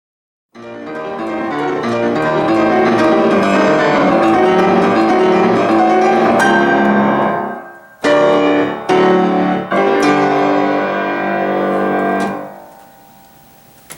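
Solo piano playing a loud, fast classical passage, then a few separate struck chords that ring and die away near the end.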